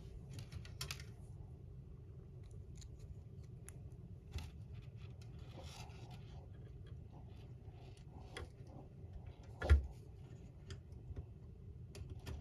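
Scattered small clicks and scrapes of model-kit parts and a small screwdriver being handled while a tiny screw is worked into a bracket, with one sharper knock about ten seconds in.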